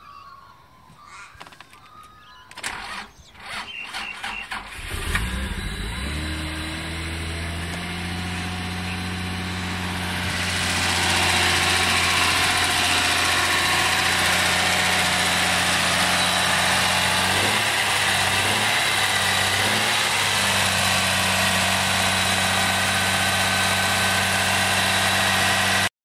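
Car engine cranked by its starter motor on power from a portable jump starter clamped to the battery, catching after a couple of seconds of cranking and then idling steadily. From about ten seconds in it is louder and hissier, heard close to the engine, and it cuts off suddenly at the end.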